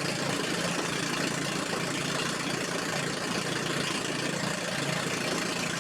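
Boat engine running steadily at an even speed, with a steady hiss over it.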